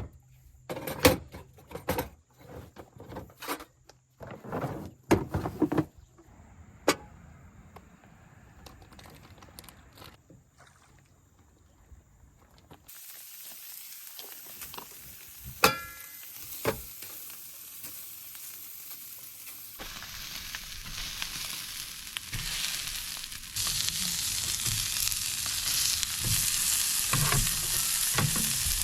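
Sausage patties frying in a pan, the sizzle stepping up about two-thirds of the way through and getting louder. Before that come a run of sharp clicks and knocks in the first six seconds, then a faint hiss.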